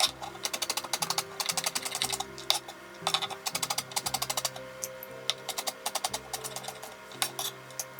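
Rapid, irregular clicking and tapping of kitchen prep work on a chopping board, several taps a second, over background music.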